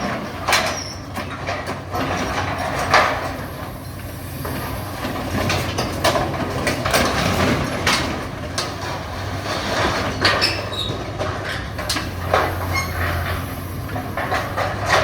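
Caterpillar demolition excavator working: the diesel engine runs steadily beneath repeated crunches, crashes and scrapes of breaking building debris and metal, with a few brief high metallic squeals.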